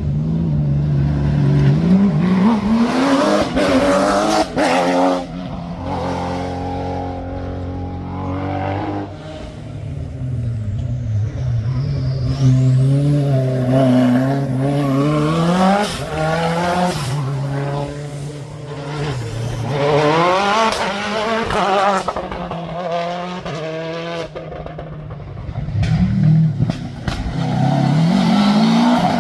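Rally cars on a stage, engines revving hard, the note climbing through the gears and dropping off, then picking up again several times. A few sharp cracks come about four to five seconds in.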